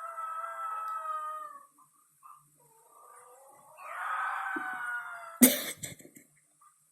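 A dog left home alone howling in long, drawn-out wails, two of them, the second rising in pitch, followed about five and a half seconds in by one short, loud sharp sound.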